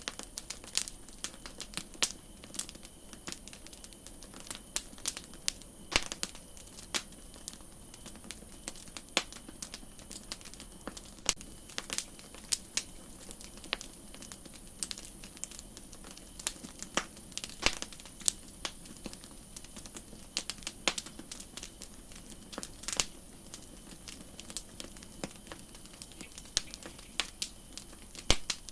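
Campfire crackling, with irregular snaps and pops of burning wood over a steady low rustle. A high steady hiss runs underneath and grows louder for a stretch in the middle.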